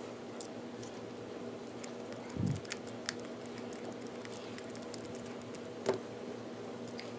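Small plastic clicks and taps from handling a toy action figure's parts while it is put back together. A soft thump comes about two and a half seconds in and a sharper click near the end, over a steady low hum.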